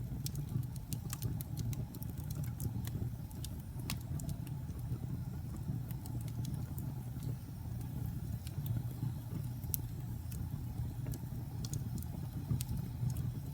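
Wood campfire burning: a steady low rumble of the fire with sharp, irregular crackles and pops from the burning wood, busier in the first few seconds.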